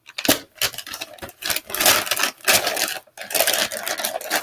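Plastic bag holding chicken pieces and flour being shaken, rustling and crinkling in quick, irregular bursts.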